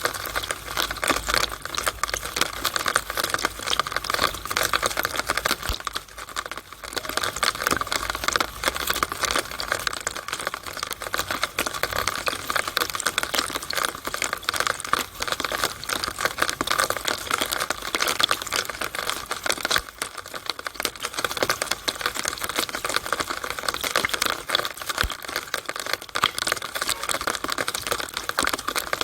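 Rainwater running and splattering in a rain downspout: a dense, fast crackle of drops and splashes, with brief lulls about six and twenty seconds in.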